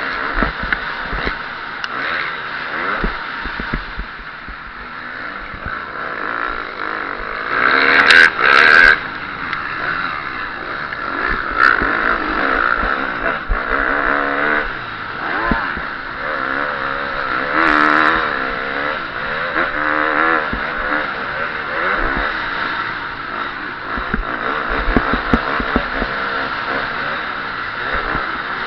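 KTM 350 SX-F single-cylinder four-stroke motocross engine revving up and down as the bike races, heard from an onboard camera. It rises and falls through gear changes, with two loud bursts about eight seconds in and again near eighteen seconds.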